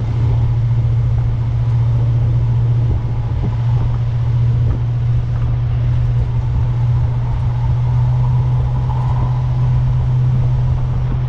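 1968 Buick Skylark convertible driving at a steady pace: engine running evenly under a continuous low rumble of road and wind noise, heard from inside the open-top car.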